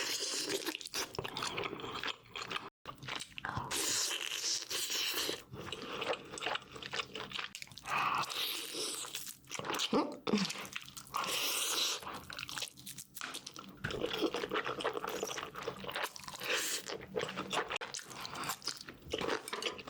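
A person eating: repeated, irregular chewing and crunchy bites of food.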